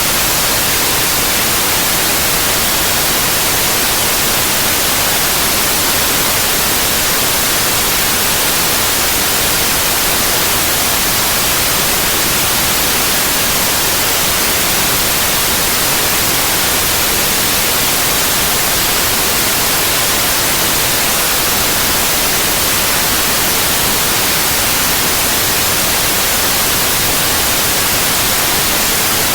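Generated white noise: a steady, loud, even hiss, brightest in the treble, unchanging throughout.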